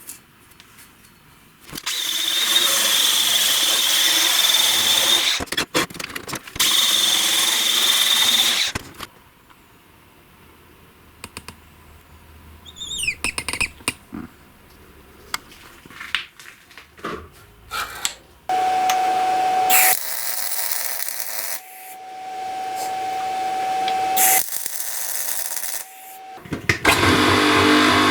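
Power tools running in several separate bursts of a few seconds each. The first two have a high steady whine, with clicks and handling noise between them. Near the end a lower-pitched motor starts up.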